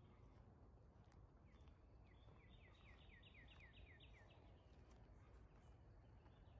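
Near silence of open countryside, with a faint songbird trill of about a dozen quick down-slurred notes about two seconds in, lasting about two seconds.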